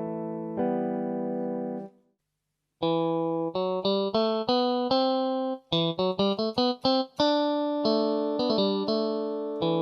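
Casio AiX sound-engine keyboard playing a guitar preset tone: a phrase of plucked-sounding single notes and chords, cut off briefly about two seconds in, then resuming with a quick run of short notes in the middle and longer held notes near the end.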